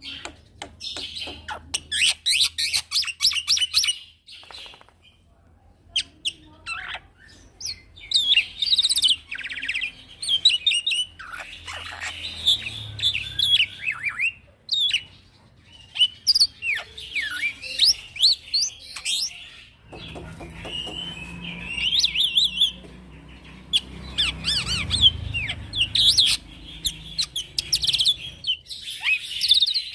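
Young male black-winged myna (jalak putih) singing in long, varied runs of chirps, whistles and fast rattling notes, with a few short pauses between runs.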